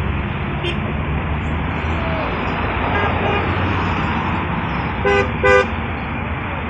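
Road traffic passing steadily, with a car horn giving two short toots in quick succession about five seconds in.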